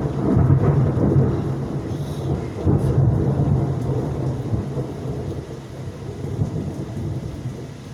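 Thunder rumbling over heavy rain, swelling again about three seconds in and then slowly fading away.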